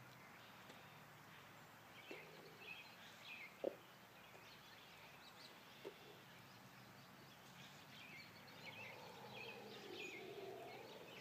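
Near silence in woodland, with faint bird chirps throughout, two small clicks, and a soft hiss near the end.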